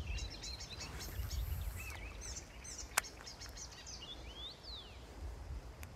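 Small birds chirping and calling, with one falling whistled note near the end, over a steady low rumble. A single sharp click about three seconds in.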